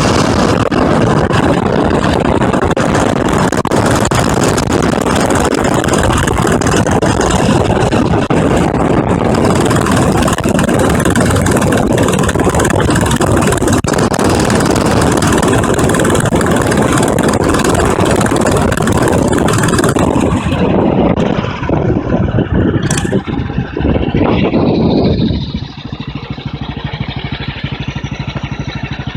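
1937 BSA M20's single-cylinder side-valve engine running under way, with heavy wind noise over it. About twenty seconds in it slows down, a brief high squeal sounds, and near the end it settles into a steady idle.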